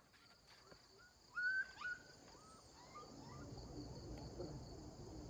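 Steady high buzz of insects, with a dog giving a few short high-pitched whines about a second in. A low rustling follows from about halfway.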